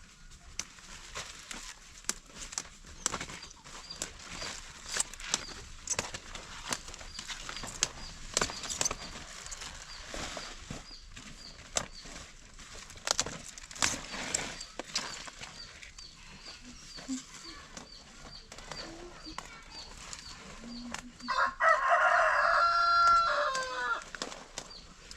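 A rooster crows once near the end, one long call of about two and a half seconds and the loudest sound here. Before it come scattered sharp clicks and rustles.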